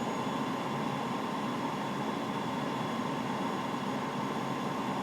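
Steady cockpit noise of an aircraft on final approach: airflow and engine noise as an even rush, with a faint steady whine over it.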